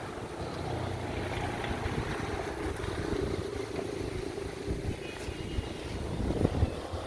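Strong storm wind gusting and buffeting the phone's microphone as a low rumbling roar, with a harder gust about six and a half seconds in.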